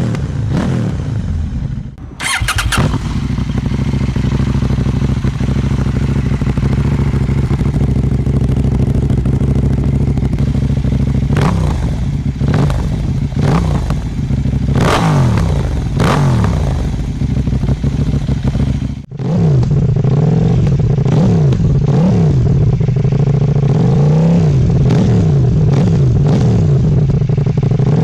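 KTM 790 Duke parallel-twin motorcycle engine heard through its exhaust, idling and being revved in repeated throttle blips that rise and fall in pitch. The sound cuts to a different recording about two seconds in, and again near two-thirds of the way through.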